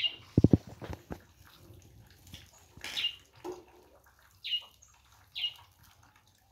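Short, high bird chirps that drop quickly in pitch, repeating every second or so, with a quick run of sharp knocks about half a second in.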